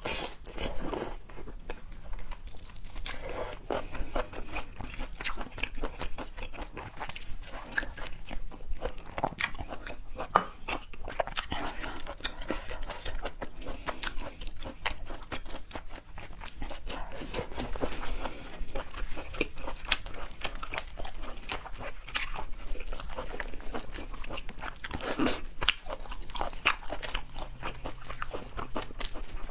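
A person chewing and biting Arctic surf clam close to the microphone: a steady, dense run of wet clicks and mouth smacks.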